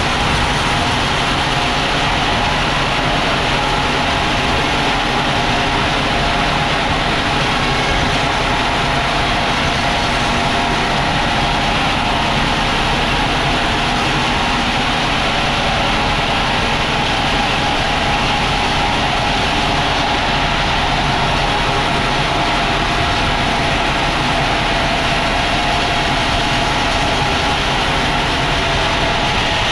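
Sawmill machinery running steadily: a loud, unchanging mechanical drone and hiss.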